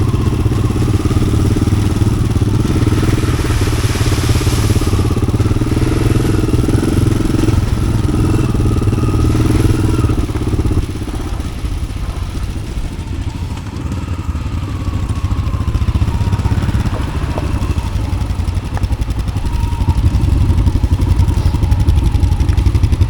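Yamaha XT600 single-cylinder four-stroke engine, fitted with an Arrow exhaust, running under throttle while the bike is ridden. The engine eases off about halfway through and then picks up again toward the end.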